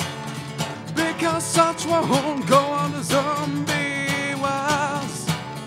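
A man singing drawn-out, wavering notes over a steadily strummed acoustic guitar in a live solo performance.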